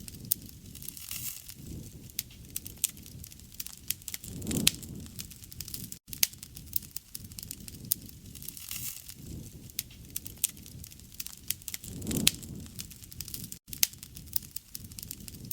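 Wood fire crackling, with frequent sharp pops and snaps over a soft steady rush, which swells lower and louder twice, at about four and a half and twelve seconds in.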